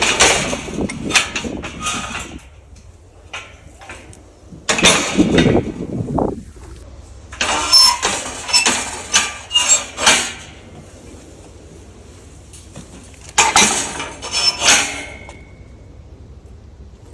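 Metal gates being swung and shut: clusters of clanks and rattles with high thin squeals, in four spells with quieter gaps between, over a steady low wind rumble.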